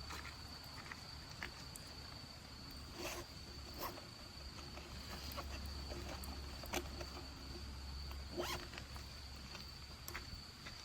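Wood fire crackling, with irregular sharp pops every second or so, the loudest near seven and eight and a half seconds in, over a low rumble.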